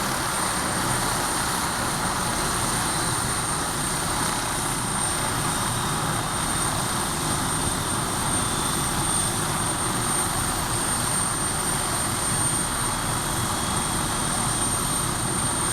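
MD 500E helicopter's turboshaft engine and rotor running steadily, a constant noise with a thin high turbine whine held at one pitch.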